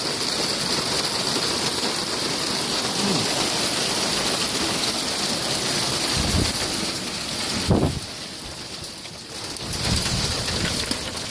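Wind-driven rain in a violent storm, a loud steady hiss, with low gusts buffeting the microphone about six and eight seconds in and a low rumble near the end.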